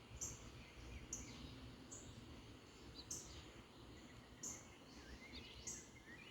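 Faint outdoor ambience with small birds calling: a short, high chirp repeats about once a second, with fainter sweeping calls between, over a low background hum.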